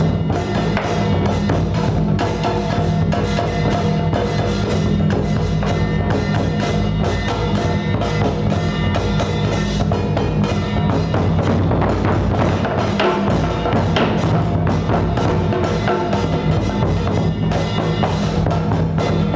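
Music with drums and wood-block percussion struck in quick, continuous strokes over sustained low notes.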